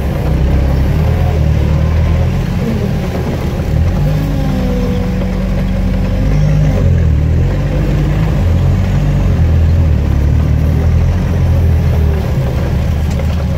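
Off-road 4x4's engine running under load as the vehicle crawls through mud, a loud steady low rumble whose pitch rises and falls slightly, heard from on board.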